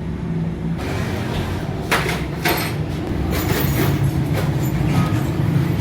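Several separate metallic knocks and clinks as motorcycle engine parts and tools are handled and fitted, over a steady low hum.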